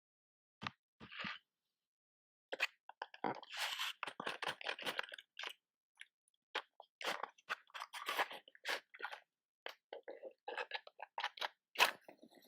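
Close-miked ASMR handling of matches and their box: irregular sharp clicks and taps with clusters of scratchy crackle, starting about half a second in and coming in bunches with short pauses.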